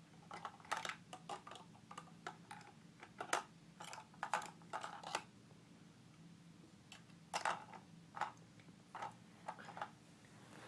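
Plastic toy pieces clicking and tapping as they are handled, in irregular clusters through the first half and again later on, over a faint steady hum.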